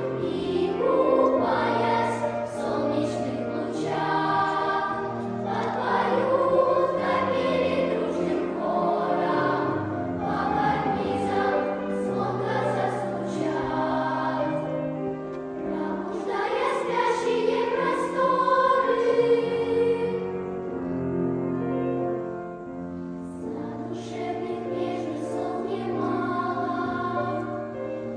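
Children's choir singing a song in unison-harmony over instrumental accompaniment with steady held bass notes, easing a little quieter for a few seconds past the middle.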